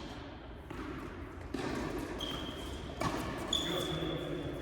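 Tennis ball being struck and bouncing on an indoor court, three sharp hits about a second apart, echoing in the hall, with two short high-pitched squeaks in between.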